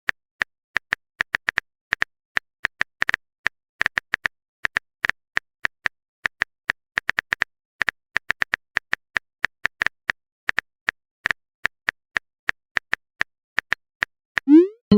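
Phone keyboard typing sound effect: short sharp taps at an uneven pace, several a second. Just before the end a rising message-sent tone starts.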